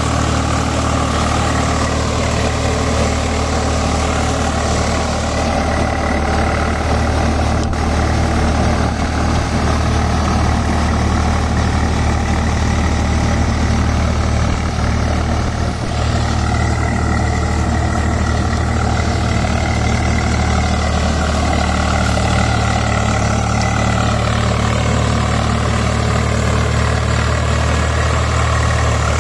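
Swaraj 744 XM tractor's three-cylinder diesel engine running steadily at an even pitch.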